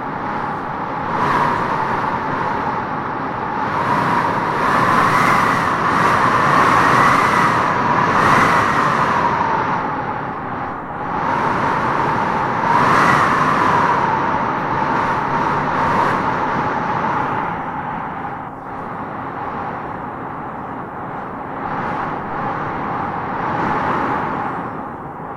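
Strong wind howling through tropical trees: a steady rush with a whistling note that rises and falls in pitch as it swells and eases in gusts, strongest about a third of the way in and again around halfway.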